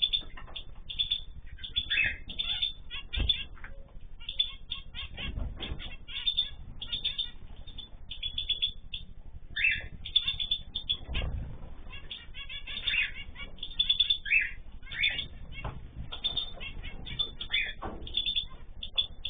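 Mixed cage birds (cockatiels, canaries, zebra finches and goldfinches) chirping rapidly and without pause, with wing flutters and a few dull knocks.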